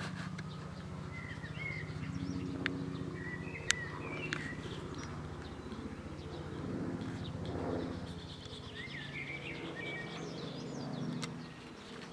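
Small birds chirping in short wavering phrases, in three bouts, over a low steady hum, with a few sharp clicks about three to four seconds in.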